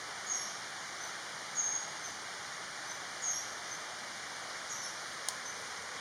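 Black-backed kingfisher (oriental dwarf kingfisher) giving short, very high-pitched calls about every second and a half, over a steady background hiss. A single sharp click comes about five seconds in.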